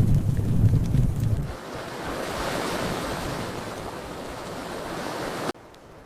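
Fireplace ambience: a low rumbling roar with a few crackles drops away about a second and a half in to a softer rushing wash that swells and fades, then cuts off abruptly near the end.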